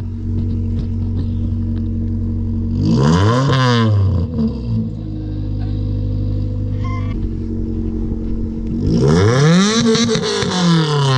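Honda Civic engine idling through a straight-through-cat exhaust and revved twice: a short rev about three seconds in and a longer one near the end, each rising and dropping back to idle. The new exhaust shows no leak.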